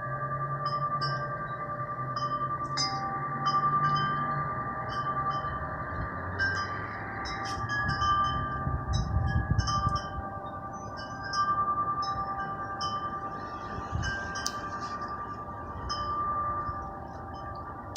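Wind chimes ringing, several long tones overlapping and fading in and out, with short high chirps repeating throughout.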